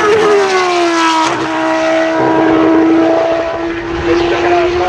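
Formula 1 car's 1.6-litre V6 turbo-hybrid engine at high revs going past. Its note drops in pitch through the first second as it passes, then holds steady, and begins to rise again near the end.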